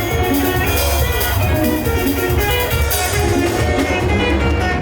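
Live Kamba band music with a heavy bass line, a steady beat and melodic instrument lines.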